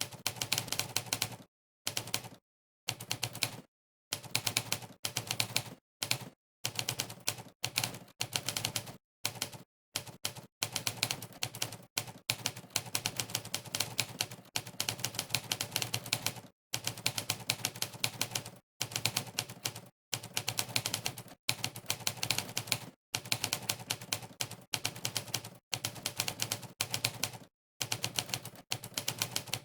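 Monkeytype's 'typewriter' keypress sound effect: a sampled typewriter key click plays on every keystroke. The clicks come in fast runs of typing, broken every second or two by brief gaps of complete silence.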